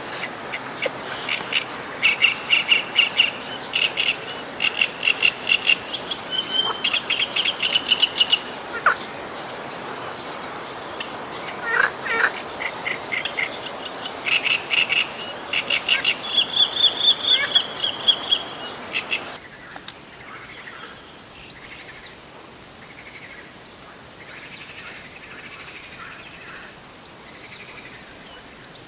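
Birds singing: dense, loud runs of rapid repeated chirps and trills. About twenty seconds in it cuts abruptly to a much quieter background with only faint birdsong.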